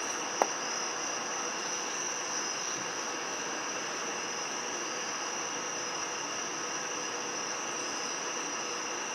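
Insects chirring as one steady high-pitched drone over an even background hiss, with a single faint click just under half a second in.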